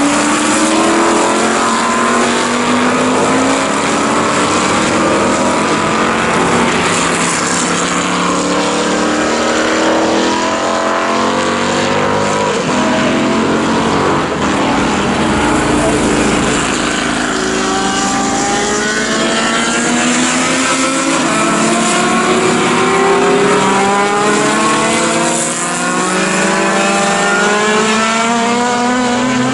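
Several historic sports-car racing engines accelerating hard, their pitch rising again and again through the gears as the cars pass one after another.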